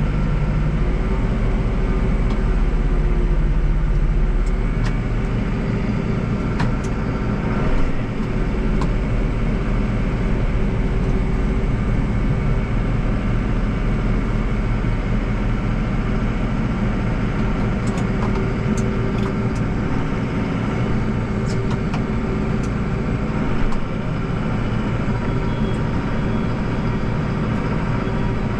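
Deutz-Fahr 5120G tractor's diesel engine running steadily under load while snowblowing, with a couple of brief louder bumps partway through.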